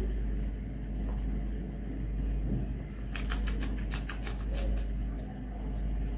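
A quick run of sharp, wet clicks from about three to five seconds in, the mouth sounds of eating a handful of rice and curry. Under it runs a steady low background rumble.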